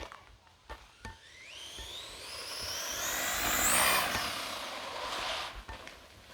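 Redcat Volcano RC truck's electric motor and drivetrain whining at high speed on 4S power, the pitch rising steeply as it accelerates, then fading away as it passes off.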